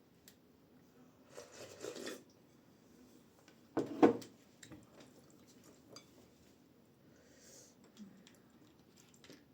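Eating sounds: a fork or spoon tapping and scraping on a plate or bowl, with small clicks and one louder knock about four seconds in.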